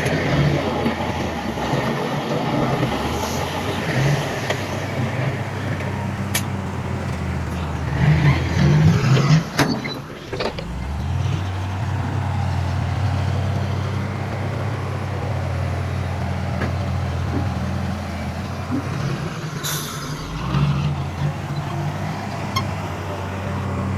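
Heavy diesel earthmoving machinery running steadily, the engine working harder for a moment about eight seconds in, with a few sharp metallic clanks.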